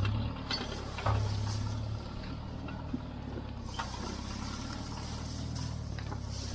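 Tractor engine running steadily, with a few scattered metallic clicks and rattles.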